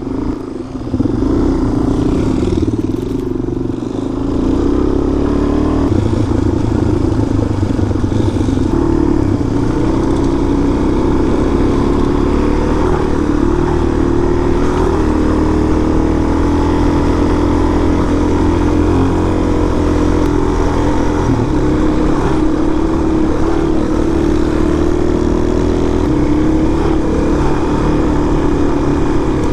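Single-cylinder four-stroke dual-sport motorcycle engine running under way on a trail ride, its note holding steady with small rises and falls in pitch as the throttle varies. It is a little quieter for the first few seconds, then steady.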